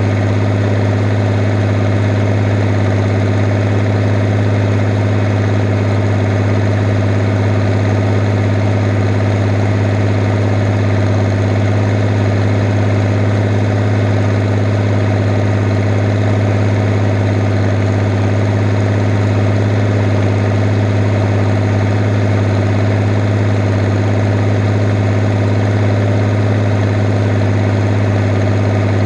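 Fiat 110-90 tractor's six-cylinder diesel engine running at a steady, even speed, with a strong low hum.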